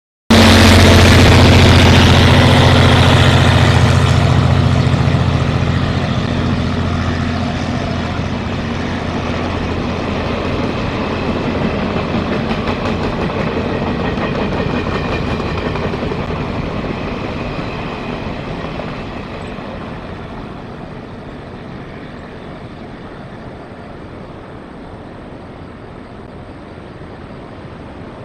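Diesel freight train passing: the R100-class diesel-electric locomotive's engine hum is loud at first and fades over the first several seconds, then the long string of wagons rolls by on the rails, dying away by about twenty seconds and leaving a steady noise of surf.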